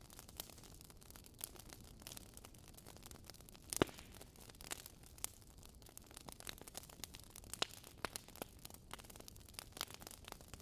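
Wood fire crackling in a fireplace: irregular pops and snaps over a soft hiss, the sharpest pop about four seconds in.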